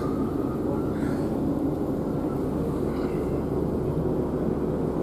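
Steady drone and rumble of a Class 150 diesel multiple unit heard from inside the carriage, at a constant level with a low hum.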